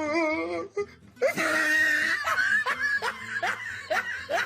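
Someone laughing hard in a quick run of short rising bursts, after a wavering pitched sound at the start.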